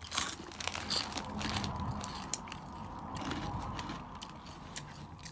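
Crunchy Cheetos being chewed, a dense run of small crackles and crunches.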